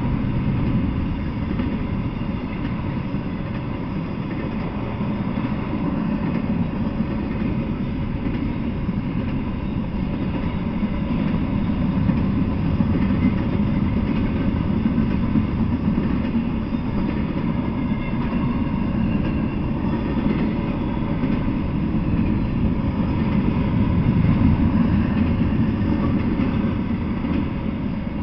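Freight train of double-stack intermodal well cars and flatcars rolling past: a steady, continuous low rumble of steel wheels on the rails.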